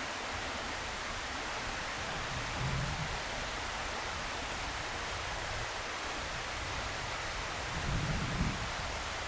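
Steady, even hiss of outdoor background noise, with two brief low rumbles, about three seconds in and again near the end, like wind buffeting the microphone.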